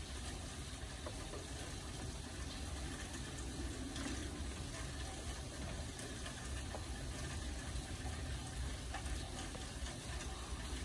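Steady rain, an even hiss with a low rumble and faint scattered drop ticks.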